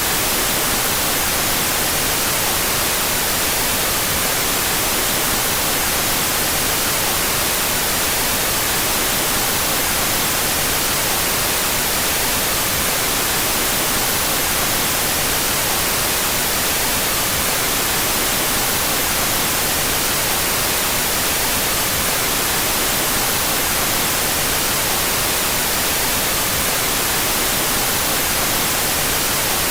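Steady electronically generated white noise, an even hiss with its energy weighted toward the high end, played with the left and right channels out of phase.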